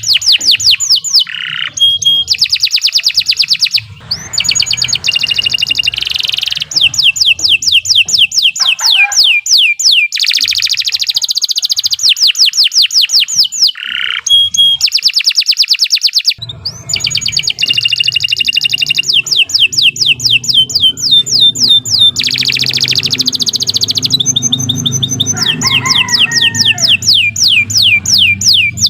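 Domestic canary singing a long, loud song of rapid trills, each phrase a fast run of repeated notes that changes speed and pitch, with short pauses about 4 and 16 seconds in.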